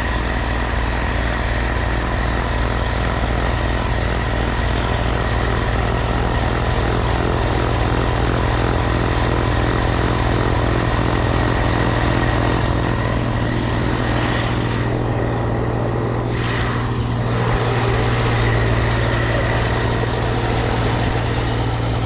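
A small gasoline engine running steadily at a constant speed, loud and close.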